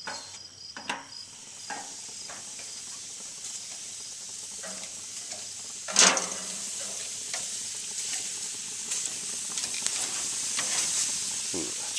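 Stir fry of shrimp, steak and vegetables sizzling on an outdoor grill, a steady hiss that slowly grows louder. About halfway through there is one sharp clatter, with a few lighter clicks around it.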